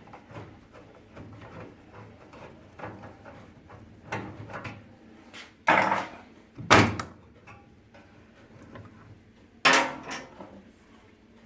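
Knocks and clatters of a microwave oven being handled and taken apart: quiet handling noises, then three loud sharp knocks in the second half.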